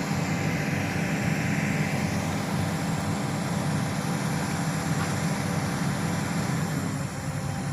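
A 4x4 pickup truck's engine running steadily at low revs.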